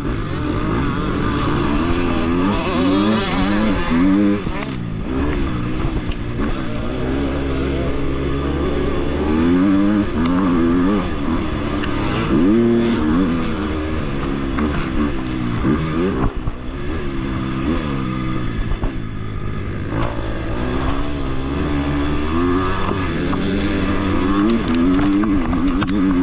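Motocross dirt bike engine racing on the track, its pitch climbing and dropping again and again as the rider accelerates, shifts and backs off.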